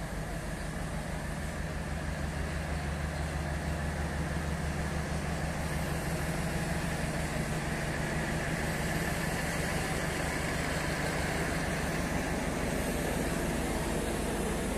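Local multiple-unit train's power car standing at the platform and running steadily with a low, even drone.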